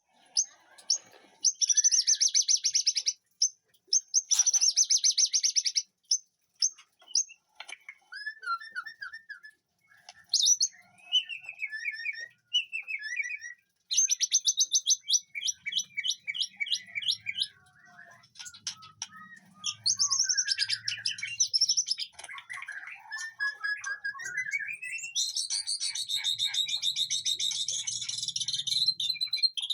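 White-rumped shama (murai batu) singing a varied song of fast trills and whistled, gliding phrases with short pauses between them, ending in a long trill.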